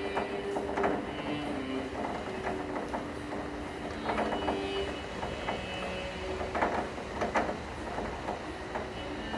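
Rain falling, with a steady hiss and scattered sharp drips and taps, over a slow cello melody of long held notes.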